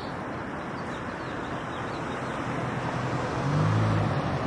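Outdoor background noise with an engine's low hum that comes in about halfway through and grows louder near the end.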